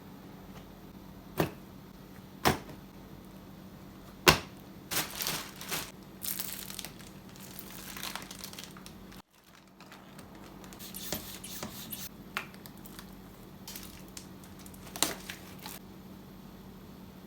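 Close handling noises: a few sharp clicks and stretches of crinkling rustle, as of objects or packaging being handled, with an abrupt drop-out about halfway through.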